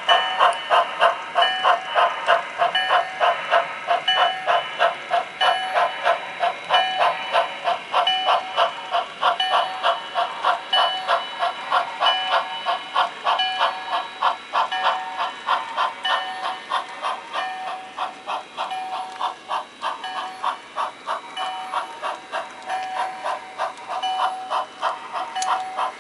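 Sound-equipped HO scale model steam locomotive chuffing at an even beat of about three chuffs a second.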